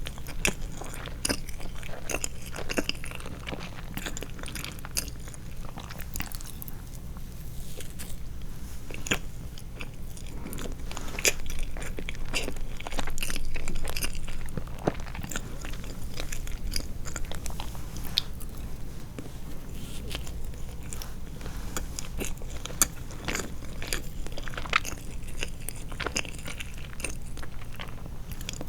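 Close-miked chewing of soft sweets: wet mouth clicks and smacks in quick, irregular succession over a low steady hum.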